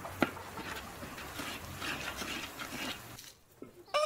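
Chopped onions frying in oil in a wok, a steady sizzle with crackles, and a sharp knock of the wooden spoon against the pan just after the start. The sizzle cuts off about three seconds in, and a rooster starts to crow right at the end.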